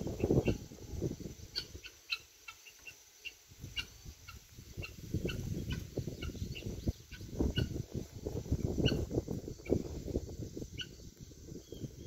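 Short high bird chirps scattered throughout, over bursts of low rumbling noise that are loudest at the start and again from about five to ten seconds in.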